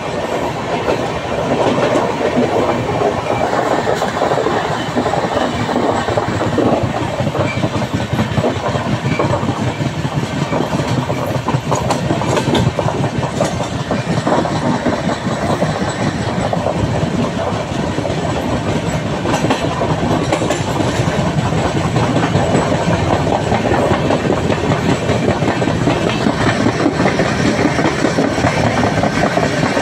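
Train running along the track, its wheels clattering steadily over the rail joints.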